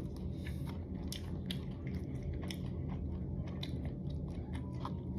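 Close-miked chewing of spicy dry hot pot, with a run of short, irregular wet clicks and small crunches from the mouth over a steady low hum.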